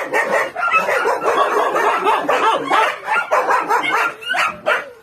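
A litter of young puppies squealing and whimpering together while nursing, many short overlapping cries without a break.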